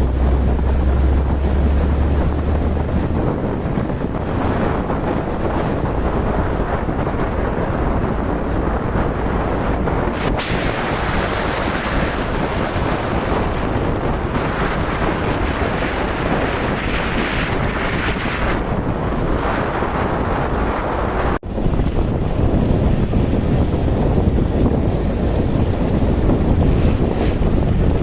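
Wind buffeting the microphone, a steady noise with no clear tones, with a brief dropout about 21 seconds in.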